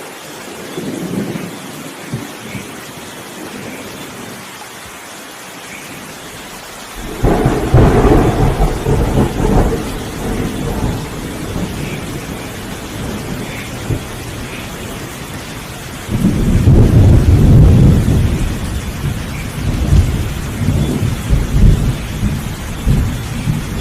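Steady rain falling in a thunderstorm, with thunder: a sudden loud clap about seven seconds in that rolls off into rumbling, and a second deep, rolling rumble from about sixteen seconds on.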